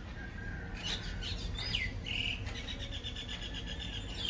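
Small birds calling: a few quick downward-slurred whistles in the first half, then a fast pulsed trill lasting about two seconds, over a steady low background rumble.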